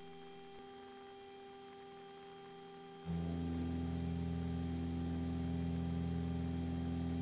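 Steady low drone of the twin-engine Piper Aztec in its climb, heard through the cockpit audio feed. It holds an even pitch throughout and gets louder about three seconds in.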